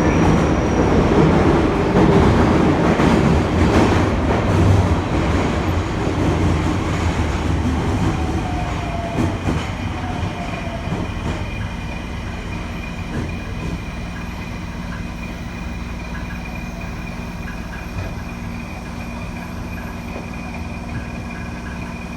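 Nagoya subway N1000-series electric train heard from inside the car: wheel and running noise in the tunnel that gradually dies down as the train slows. Around the middle there is a faint falling whine from its Mitsubishi IGBT inverter-driven traction motors, and steadier tones hum under the quieter second half.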